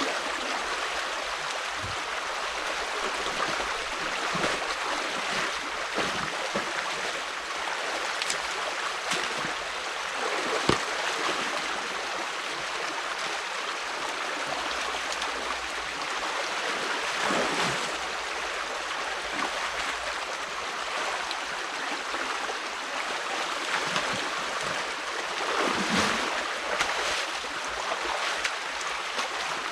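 Stream water rushing steadily through a beaver dam being dismantled. A few short, sharp sounds stand out over it, the loudest about ten seconds in and another near the end.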